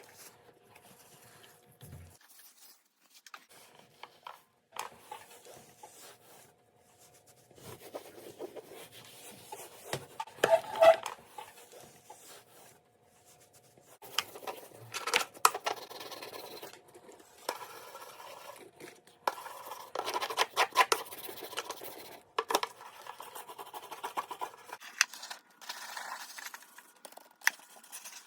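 Irregular scraping, rubbing and clicking of items being handled and surfaces being wiped while the top of a fridge is cleared and cleaned, with a loud clatter about ten to eleven seconds in.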